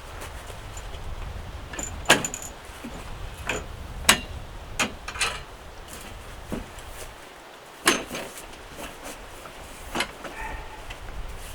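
Irregular sharp knocks and clanks, about half a dozen, over a steady low rumble.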